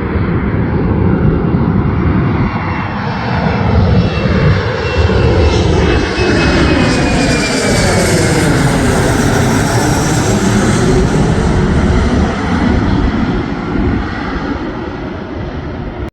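Fixed-wing airliner passing close overhead, its engines loud and steady, with a high whine that slides down in pitch as it goes by. The sound fades near the end.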